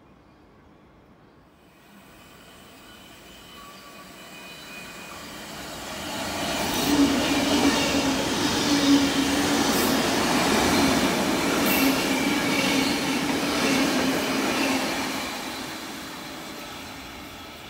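A Sydney Trains K set double-deck electric train running through the station without stopping. It grows louder as it approaches, is loudest for about eight seconds as the cars pass close by with a steady humming tone and a few sharp metallic strokes, then fades as it leaves.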